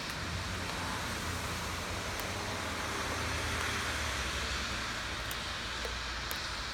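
Steady rain falling, an even hiss with a few faint ticks of single drops, over a low rumble.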